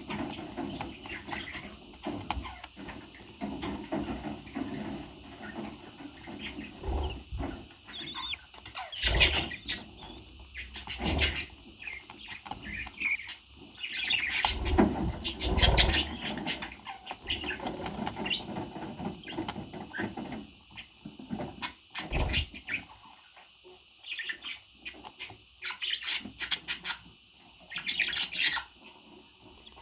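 Pet parrot chirping and calling in short scattered bursts, with a few louder thumps and knocks in between.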